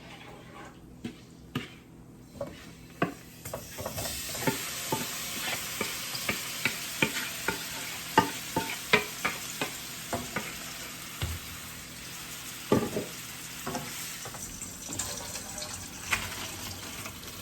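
Seasoned shrimp sizzling as they fry in oil in a pan, while a utensil clicks and scrapes against the pan as they are stirred. Only scattered taps come before the sizzle starts, about four seconds in.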